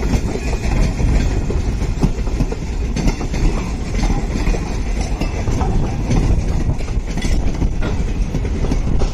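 Heritage railroad passenger coaches rolling past. Their steel wheels make a steady rumble with repeated clicks over the rail joints.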